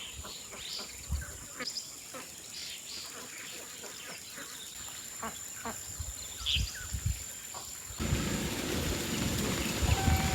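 Outdoor rural ambience: scattered bird chirps over a faint steady high tone, with a few low thumps. About eight seconds in, it cuts suddenly to a louder, even rushing noise with low knocks.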